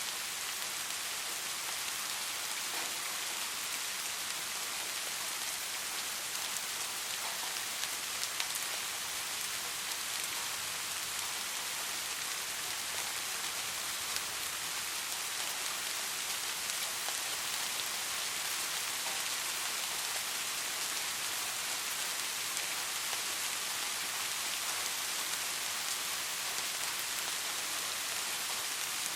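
Steady rain falling, an even hiss with scattered drops ticking, and no thunder.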